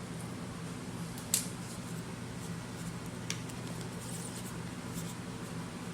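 A few sharp clicks and light taps of kitchen utensils, the loudest about a second and a half in, over a steady low hum of room noise.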